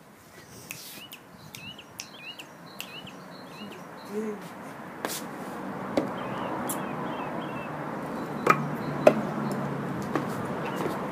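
A bird chirping, a quick run of short rising chirps in the first few seconds. Then come sharp knocks of large plastic chess pieces being picked up and set down on the mat over the wooden deck, the two loudest a little over halfway through, over a background hiss that grows louder.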